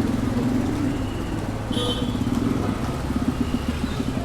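A motor vehicle's engine running close by, a steady low throb with fast regular pulsing. A brief high-pitched squeak comes just before two seconds in.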